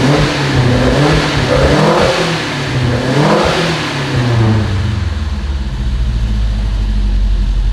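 Volvo 145's four-cylinder engine on freshly tuned Weber carburettors, revved up and down about three times, then settling to a steady idle about five seconds in.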